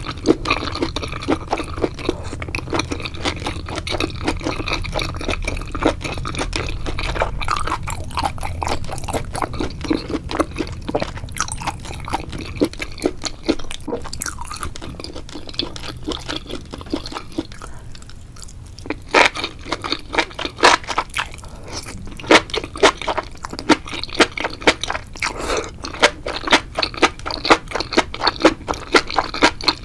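Mukbang eating sounds: wet chewing, crunching and squishing of octopus and enoki mushrooms in a thick spicy sauce, a dense run of rapid mouth clicks. A brief lull comes a little past the middle, followed by sharper, louder bites.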